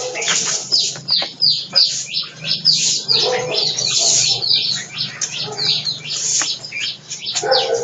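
Many small birds chirping at once, a dense run of short, overlapping chirps that sweep downward in pitch, with no pause.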